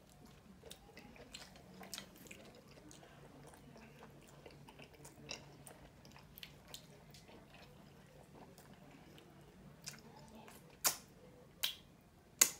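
Close-miked chewing of a soft taco and cheese-covered nachos, with small wet mouth clicks throughout. A few loud, sharp smacks come near the end.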